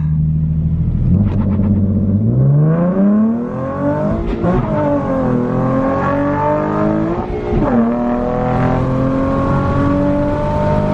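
Nissan 370Z's 3.7-litre V6, heard from inside the cabin, idling and then revving hard in a full-throttle launch from a stop. The revs climb steadily, drop at an upshift about four seconds in, climb again, drop at a second upshift shortly before eight seconds in, then rise slowly in the next gear.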